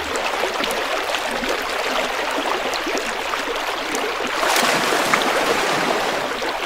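Running water of a small stream: a steady rushing and gurgling with small scattered splashes, swelling slightly a little past the middle.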